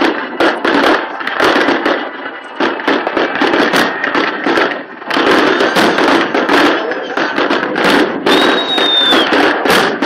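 Fireworks display: aerial shells bursting in a rapid, dense string of bangs and crackles. A short high whistle sounds about eight seconds in.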